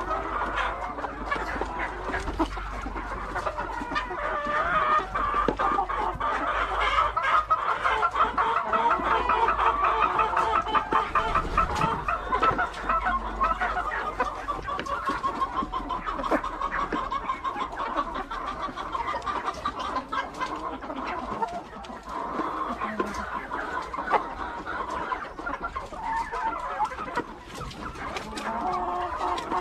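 A flock of hens clucking, many birds calling over one another continuously, busiest in the middle of the stretch.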